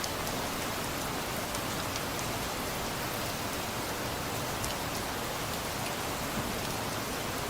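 Steady rain falling, with a few faint, sharper drop ticks here and there.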